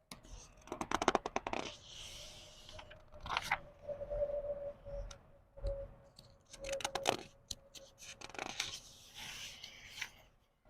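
Paper pages of a book being turned slowly, one at a time: several separate crinkling rustles a couple of seconds apart, each with a crisp crackle as the page flips.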